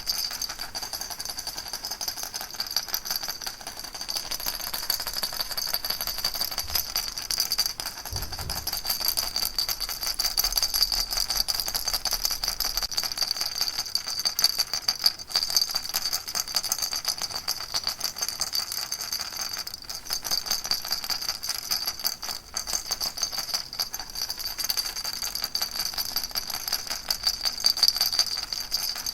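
Baby rattle shaken fast and without pause, an unbroken dense rattling with a steady high ring over it.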